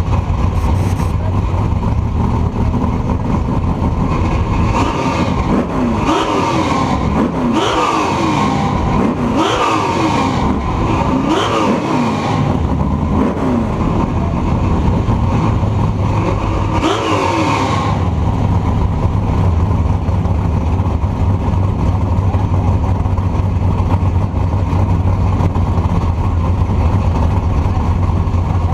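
Car engine at full throttle, climbing in pitch and dropping back at each upshift: about five quick gear changes from a few seconds in, then one more a few seconds later, over a steady low road-and-wind rumble.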